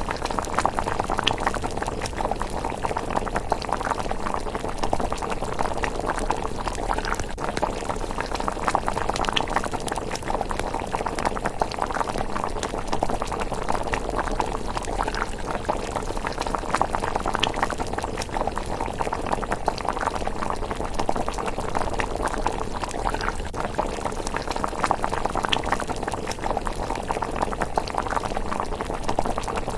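Thick rice porridge simmering in a pot, bubbling and popping in a continuous dense stream of small blips.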